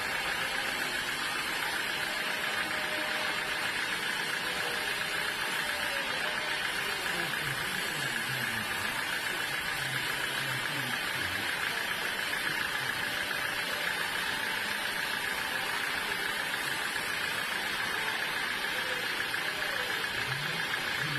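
Sawmill machinery running steadily: an even, unchanging mechanical drone with no cuts starting or stopping, and faint voices in the background.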